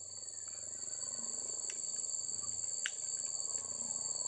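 Insects trilling steadily in two high, thin, unbroken tones, with a faint low hum underneath and a few light clicks.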